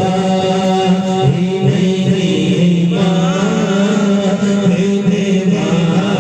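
A naat sung unaccompanied, the voice bending and ornamenting its lines over a steady low hum.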